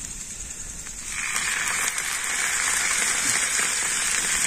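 Food frying in hot oil in a pot on a portable gas stove: a loud, crackling sizzle starts about a second in and carries on over a steady high hiss.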